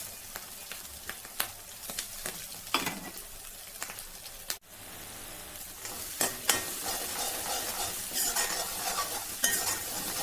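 Green chilli paste and curry leaves sizzling in hot oil in a metal kadai, with a spatula scraping and clicking against the pan as it is stirred; the sizzle grows louder about six seconds in. The paste is being fried until its raw smell cooks off.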